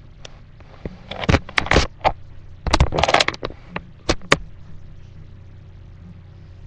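A flurry of scraping, rustling and sharp knocks for about three seconds, then only a steady low hum.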